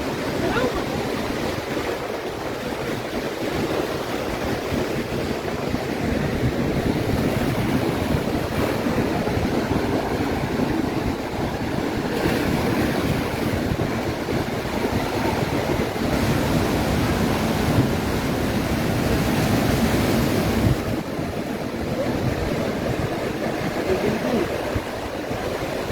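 Ocean surf breaking and washing up the beach, with wind buffeting the microphone. The rushing swells and eases, and drops off sharply about three-quarters of the way through.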